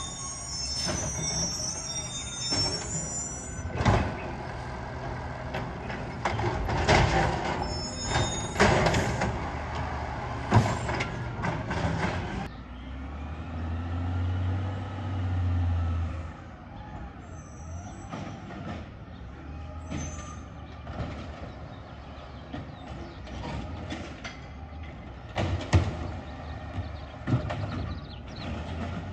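Garbage truck at work: a high squeal at the start, then a run of clanks and bangs over the running diesel engine for about twelve seconds. The engine then rises briefly and settles to a quieter run, with a few more knocks near the end.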